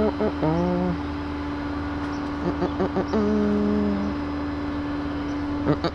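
A vehicle engine running with a steady low rumble under a constant hum. Short pitched sounds come and go over it about a second in and again around three to four seconds.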